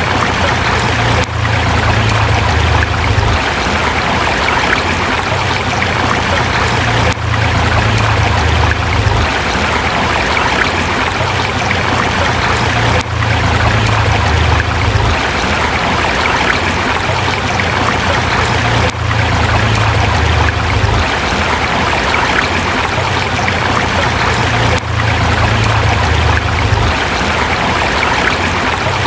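River water rushing over rocks, a steady loud flow, with a low rumble underneath that swells and fades every few seconds.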